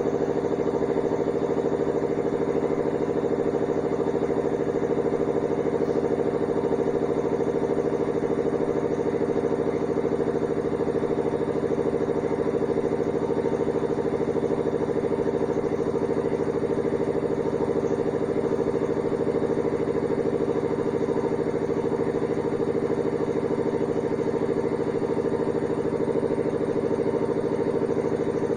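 Hanseatic washing machine spinning at a steady high speed: a loud, even drone with a fast rhythmic pulsing and a light clatter.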